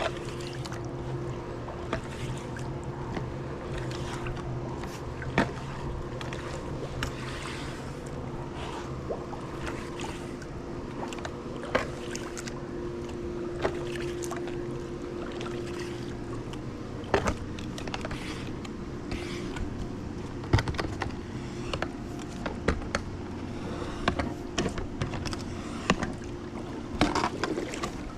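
Pool brush scrubbing the pool surfaces underwater, with water swishing and occasional sharp knocks of the pole, over the steady hum of the pool pump motor.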